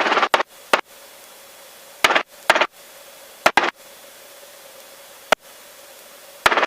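Aviation headset intercom and radio feed: a steady hiss with a faint hum, broken by several short, loud bursts of static-like noise and brief sharp dropouts, like a radio squelch breaking open and shutting.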